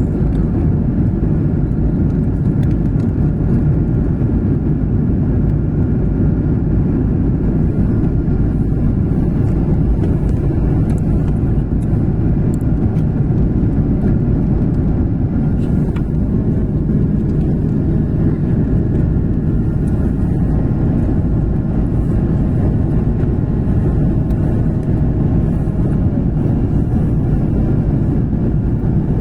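Jet airliner engines running steadily: a constant low rumble with a faint steady whine above it.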